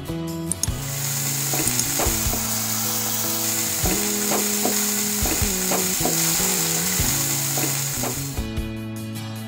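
Hot oil sizzling in a frying pan as masala-coated mackerel cooks. It starts just under a second in and cuts off sharply near the end, over background music.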